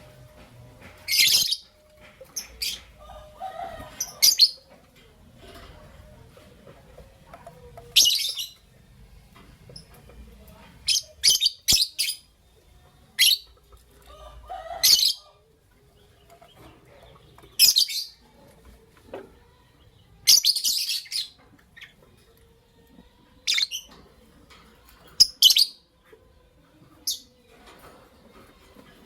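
Lovebirds giving short, shrill, scratchy chirps, singly and in quick pairs, every second or few, with brief pauses between.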